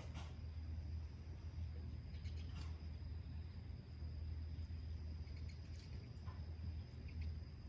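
Evening insects chirping, a high pulsing trill with a steady thinner tone beneath it, over a constant low hum, with a few faint clicks.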